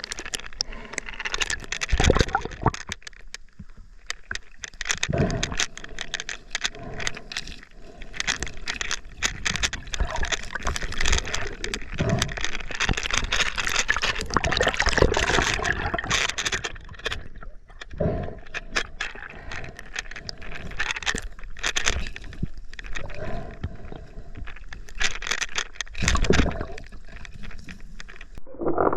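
River water splashing and gurgling close around the camera, with many irregular clicks and knocks.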